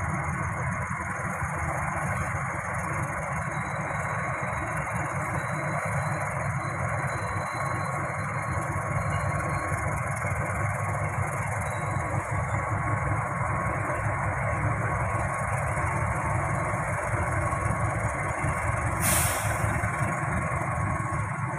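A train running: a steady rumble with hiss, and one sharp click near the end.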